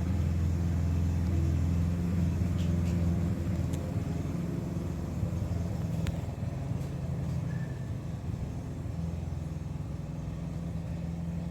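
A steady low mechanical hum, like a motor or engine running, with a couple of faint ticks.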